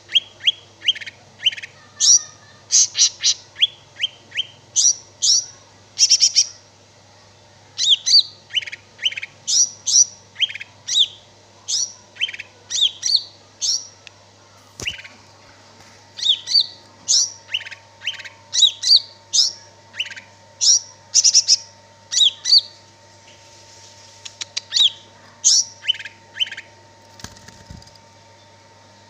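Green leafbird (cucak ijo) singing: a rapid string of short, sharp whistled notes that sweep downward, delivered in phrases with brief pauses, over a faint steady hum.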